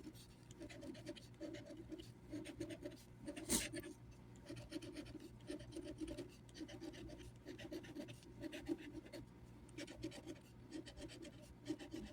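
Scratching the coating off a Pennsylvania Lottery Power 500 scratch-off ticket: faint, quick, repeated scraping strokes, with one sharper tick about three and a half seconds in.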